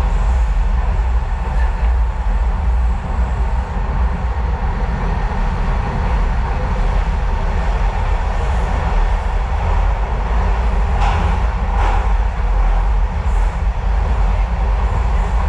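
Docklands Light Railway train running between stations, heard from inside the carriage: a steady low rumble with two brief clacks about eleven and twelve seconds in.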